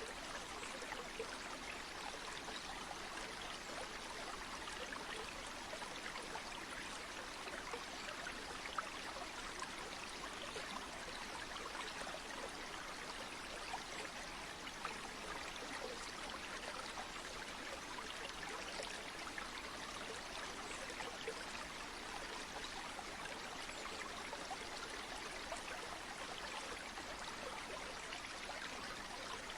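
Flowing stream water: a steady, even rush sprinkled with many small splashes and trickles.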